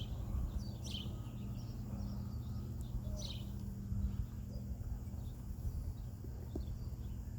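Steady low rumble of distant road traffic, with a few short bird chirps: one at the start, one about a second in and one a little after three seconds.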